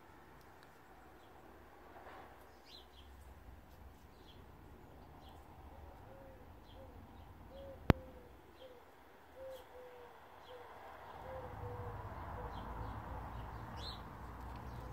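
A bird calling a steady run of short, low hooting notes, about two a second, through the middle stretch, with faint high chirps of small birds around it. A single sharp click about halfway through stands out as the loudest sound.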